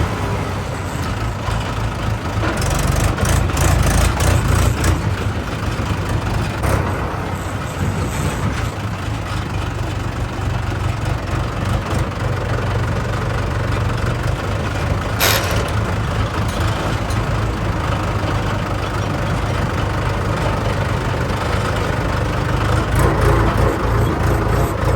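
Heavy diesel engine of farm or construction machinery running steadily, with a few knocks about three seconds in and one sharp knock midway.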